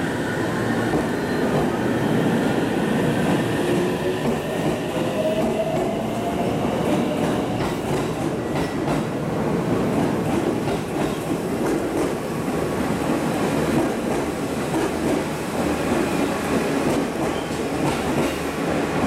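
JR Central 313-series electric train pulling out: its traction motors whine, rising in pitch through the first several seconds. Then come a steady rumble and the clatter of wheels over rail joints as the cars roll past.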